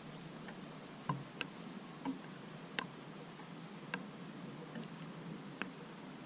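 Raindrops dripping during a thunderstorm, each drop landing as a sharp tick at irregular intervals, roughly one or two a second, over a faint steady hiss of rain. No thunder.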